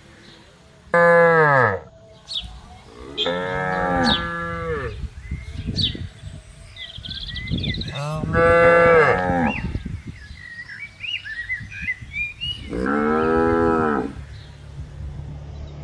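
Cattle mooing: four separate long moos, the first falling in pitch and the third the loudest, with birds chirping faintly in the gaps.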